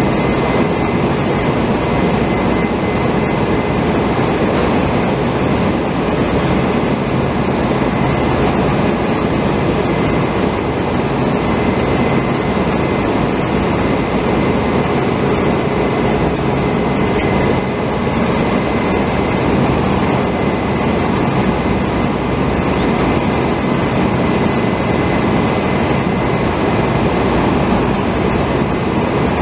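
Steady, loud machinery drone with a thin, steady high whine running through it.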